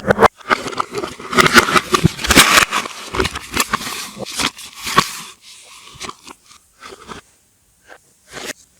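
Soap packaging crinkling and crackling as it is handled and unwrapped, played backwards. Dense crackling with sharp clicks for the first five seconds or so, then only a few scattered clicks with pauses.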